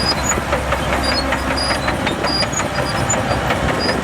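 Crawler bulldozer's diesel engine running steadily, with rapid clanking and short squeaks from its steel tracks as it moves.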